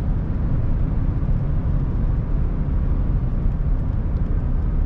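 Inside the cab of a 2021 Ford F-150 Raptor cruising on the road: a steady low rumble of the truck's engine and exhaust mixed with noise from its 37-inch tires.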